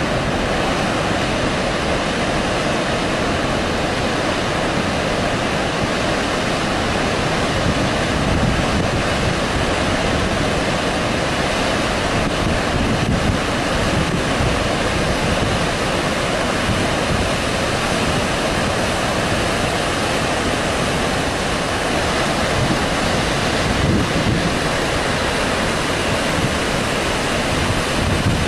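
Water discharging under high pressure from Tarbela Dam, swollen after heavy rain: a steady, loud rush of water.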